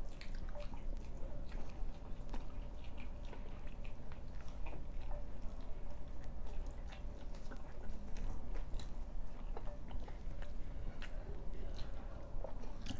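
A person biting and chewing paratha flatbread coated with egg, with many short mouth clicks throughout.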